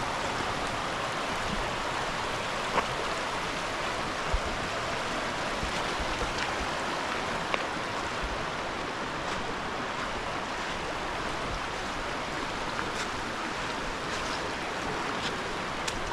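River water rushing steadily over rocks, with a few sharp knocks.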